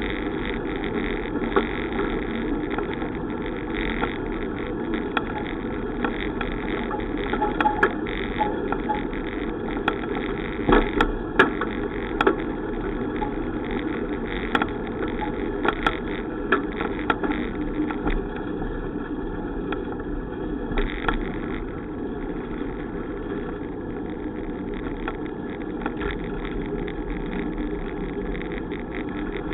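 Steady wind and road noise of a bicycle being ridden, with scattered sharp clicks or rattles, most of them about ten to thirteen seconds in.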